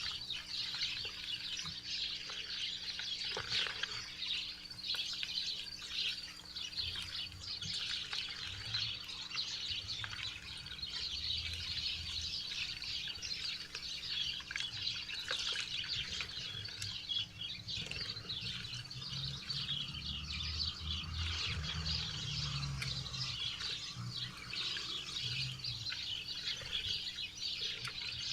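Many small wild birds chirping together, quick overlapping chirps with no break. A low rumble comes and goes underneath in the middle.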